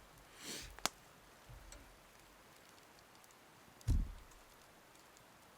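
Scattered light ticks and a sharp click, a brief hiss, and one dull low thump about four seconds in, the loudest sound here.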